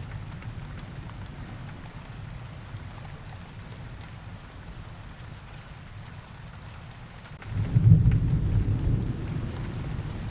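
Steady rain falling, with a roll of thunder that rumbles in suddenly about seven and a half seconds in and slowly eases off.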